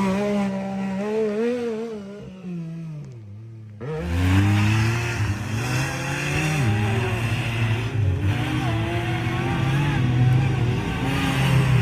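A side-by-side UTV's engine running under throttle. Its revs fall away and it nearly goes quiet about three seconds in, then it picks up sharply at about four seconds and runs on steadily, with small rises and falls in revs.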